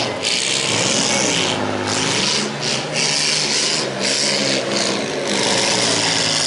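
Several midsize demolition derby cars' engines revving hard, a loud raspy exhaust noise that rises and falls and drops out briefly several times as the throttle comes off.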